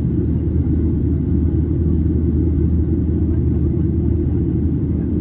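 Steady low rumble inside the passenger cabin of a Boeing 737-800 during takeoff, from its CFM56-7B turbofan engines at high thrust and the rush of air and gear.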